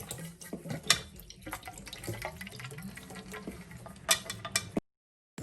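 Leftover water from an old Siemens dishwasher's sump and drain trickling and sloshing out into a container, with handling clicks and knocks, the sharpest about a second in. The sound cuts off abruptly near the end.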